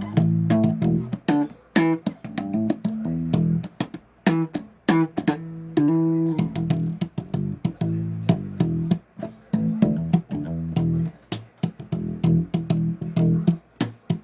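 Electric bass guitar played solo, a busy run of plucked and fretted notes in the low register with sharp attacks.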